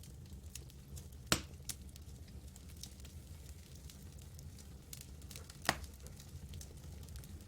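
Campfire burning, wood crackling with many small scattered crackles and two sharp louder pops, one about a second in and another about four seconds later, over a low steady rumble.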